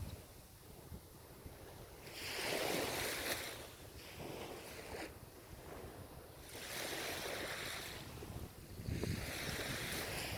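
Ocean waves breaking and washing up the shore. Three separate swells of surf rise and fade, with a quieter hiss between them.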